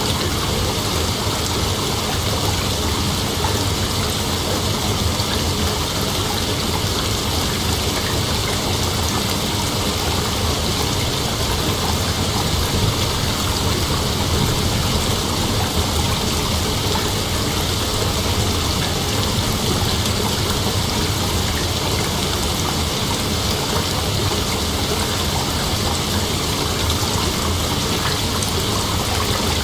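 Dense, steady chorus of night insects, an unbroken high hiss-like drone, with a steady low rumble underneath.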